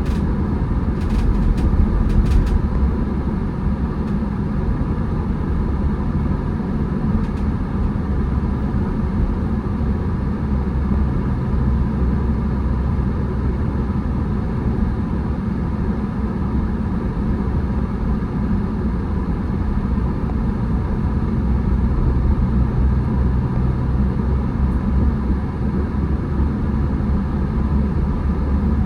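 Steady car engine and tyre rumble of a car being driven on the road, heard from inside the car.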